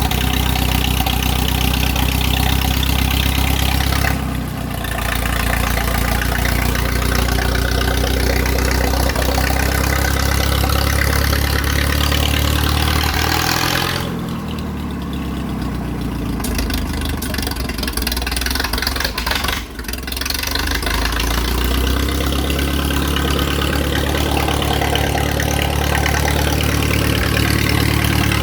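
Minneapolis-Moline U tractor's four-cylinder engine running after five years sitting unused. It mostly idles steadily; the engine note shifts briefly about four seconds in, then changes and slides in pitch for several seconds midway before settling back to a steady idle.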